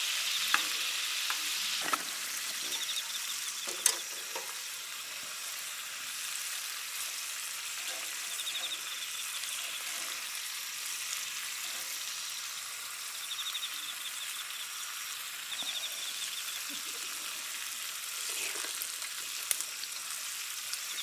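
Meat sizzling as it fries, a steady hiss with a few sharp clicks and pops. Autumn insects trill in short high phrases now and then.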